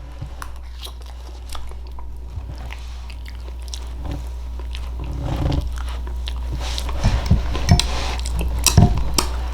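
Close-up chewing and mouth clicks of someone eating a sticky, glazed baked sweet potato with marshmallows, the wet clicks growing denser and louder in the second half. A steady low hum runs underneath.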